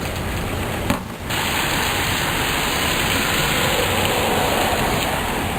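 Steady rain falling, an even hiss, with a brief dip about a second in.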